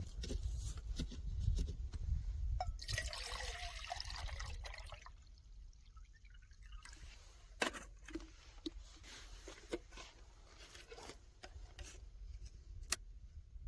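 Water pouring into the portable camping boiler's hot-water tank for a couple of seconds, followed by scattered sharp clicks and knocks from handling the unit, over a low wind rumble.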